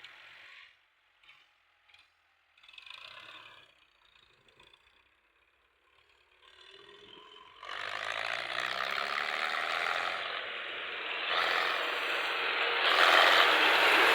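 Massey Ferguson 260 tractor hauling loaded trolleys: a few faint knocks, then about halfway through a loud, dense metallic rattle and clatter sets in over the diesel engine, whose pitch slowly rises and falls.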